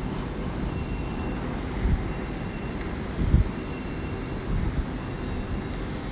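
Great Western Railway Class 800 IET train starting to pull out of a platform, a steady low rumble and hum.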